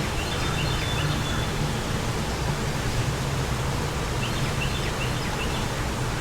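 Steady wind noise with a low rumble, and small birds chirping in two short bouts of quick repeated chirps, one at the start and one about four seconds in.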